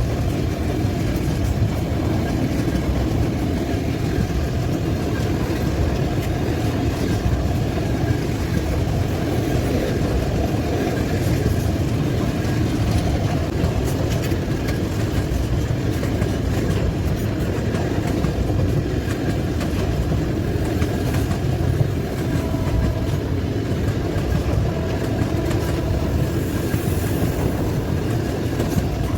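Freight train of tank wagons rolling past, a steady rumble of wheels on the rails.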